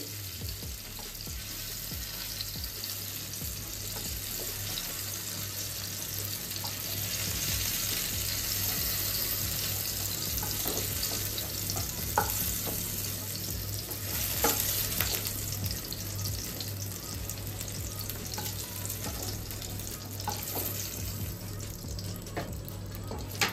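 Pumpkin pieces sizzling in hot oil in a kadai, with occasional clicks and scrapes of a slotted spatula against the pan as the pieces are lifted out.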